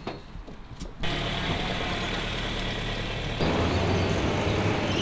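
Car engine and road noise, steady. It starts abruptly about a second in and gets louder about two and a half seconds later.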